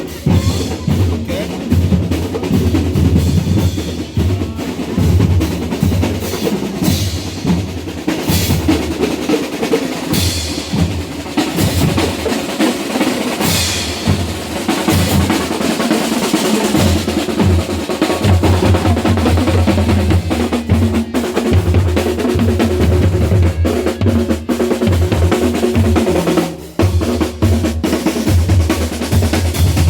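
Parade marching band drums playing continuously, with bass drums and snare drums beating and rolling. Held pitched notes sound over the drums in the second half.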